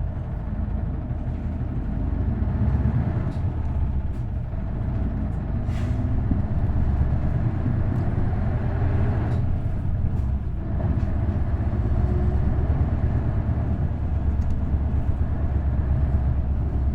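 Isuzu Erga city bus's V8 diesel engine running under way, heard from inside the cabin: a steady low drone that grows louder about two seconds in and dips briefly about ten seconds in.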